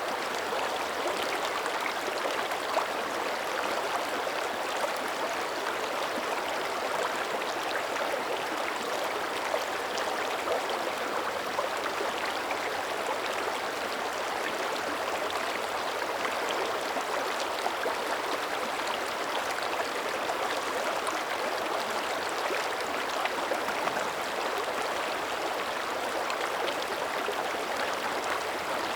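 Small mountain creek running over rocks: a steady babble of flowing water with small splashes and trickles throughout.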